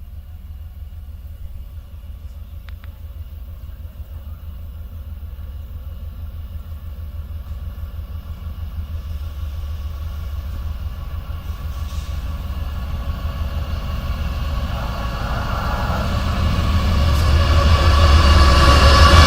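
Heavy freight train approaching: a low rumble that grows steadily louder, with a whine of several steady tones swelling in over the last few seconds as it draws near.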